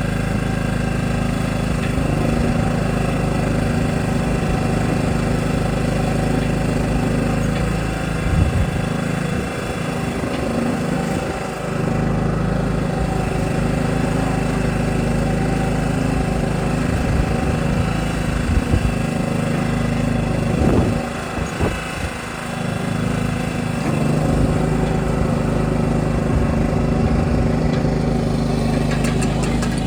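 Small tractor's engine running steadily while pulling a hay rake. Its steady note falters and wavers twice, about a third of the way in and again two-thirds in.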